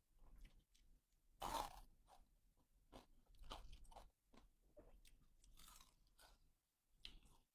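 Close-up eating sounds: a person chewing and crunching food in short irregular bites, with one louder crunch about one and a half seconds in.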